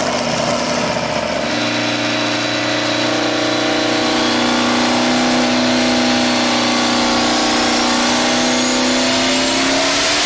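An engine running at a steady high pitch for several seconds, its note rising slightly near the end, with a faint high whine climbing over the last few seconds.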